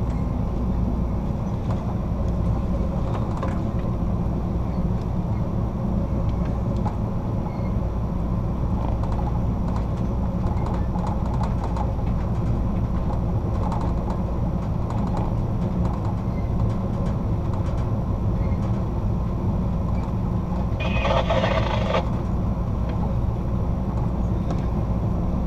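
Steady low rumble of a passenger train rolling over the rails, heard from inside the car. Near the end there is a brief, louder hiss lasting about a second.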